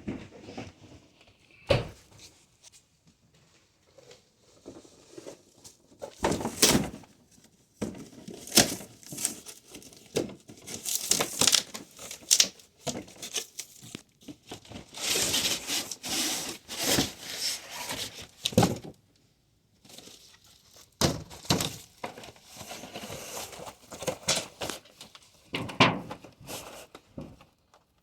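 Packaging of a new radiator being handled and torn open: irregular crinkling, tearing and rustling of wrapping with occasional knocks and thunks.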